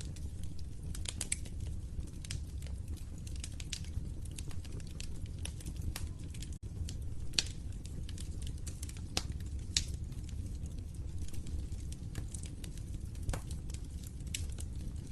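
Wood fire burning in a fireplace, with a steady low rush of flame under irregular crackles and snaps. Two sharper pops stand out, at about seven and a half and ten seconds in.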